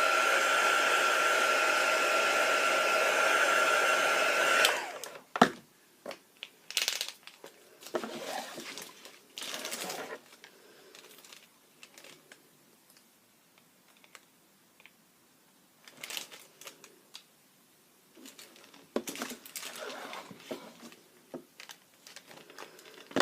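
Handheld craft heat tool blowing on acrylic paint to dry it, a steady whoosh with a steady motor whine; it is switched off about five seconds in. After that come scattered short taps and rustles of handling.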